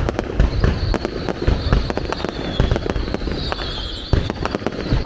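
Aerial fireworks going off in a dense, irregular run of booms and sharp bangs, with a high wavering whistle running over them from about half a second in.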